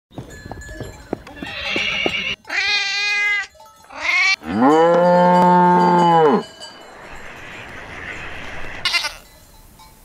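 A string of farm-animal sound effects. Knocks and clinks come in the first two seconds, then a wavering call and a short rising call. A long, loud cow moo follows from about four and a half to six and a half seconds, the loudest sound. After a stretch of noise comes a brief high call near the end.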